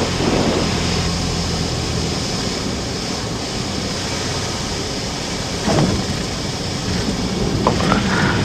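Cessna 172 cabin noise in flight: the Lycoming engine and propeller drone under steady rushing airflow. The engine's low hum changes about two seconds in, and there is a brief louder sound near six seconds.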